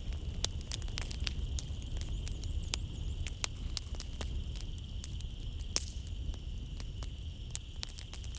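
Wood fire burning in a fireplace, with many irregular sharp snaps and pops over a low, steady rumble of flames. A steady high-pitched drone sits in the background throughout.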